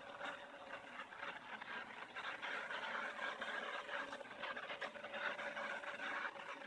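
ILIFE robot vacuum cleaner running as it cleans the floor: a steady motor hum with a whir of suction and brushes, and small scattered ticks.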